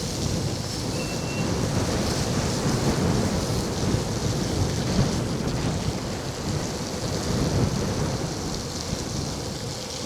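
Wind rumbling on the microphone of a moving electric scooter, over the steady hiss of its narrow tyres on wet, salted pavement.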